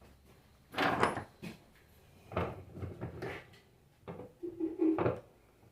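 Knocks and clunks of alternator parts being handled and fitted on a workbench, in three short bursts, with a brief squeak just before the last one.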